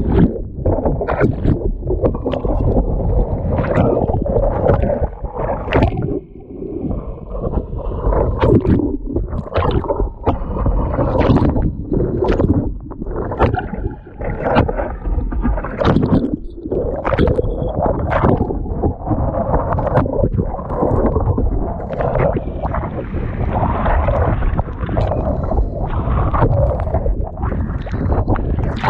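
Heavy wind buffeting the microphone, with water splashing and sloshing in irregular bursts.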